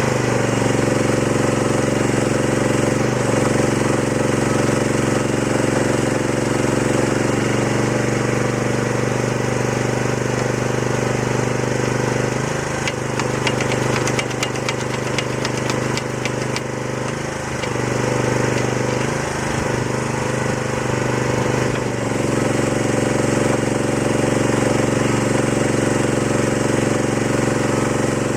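Chinese-made excavator's engine running steadily. In the middle its note shifts as the machine works, with a run of rapid clicking and rattling.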